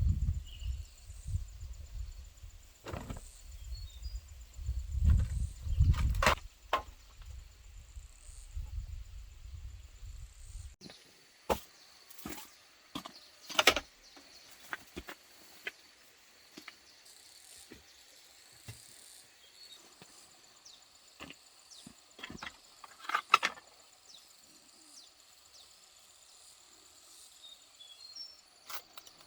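Outdoor ambience: a low rumble, like wind on the microphone, with a few sharp knocks for about the first ten seconds. The rumble then stops abruptly, leaving scattered light clicks and knocks over a faint steady high hum of insects.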